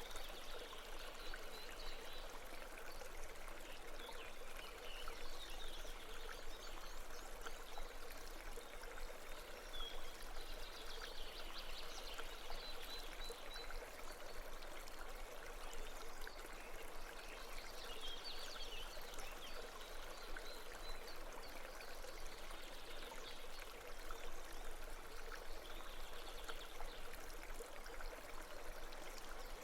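Babbling brook: steady running water with faint high chirps now and then.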